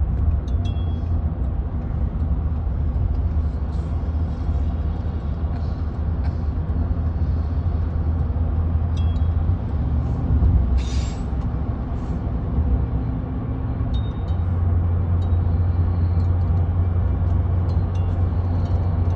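Car driving: a steady low rumble of engine and road noise, with a few faint clicks and a brief hiss about eleven seconds in.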